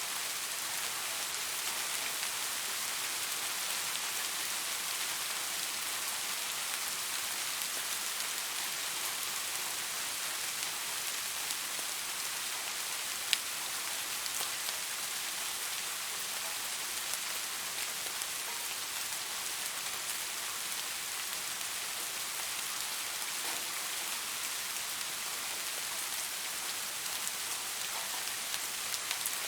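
Steady light-to-moderate rain falling, an even hiss with scattered drop patter and one sharper drop tick about halfway through.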